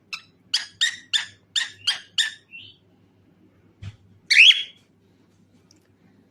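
Cockatiel calling: a quick run of six short, harsh chirps at about three a second, then a single louder, sweeping call a couple of seconds later.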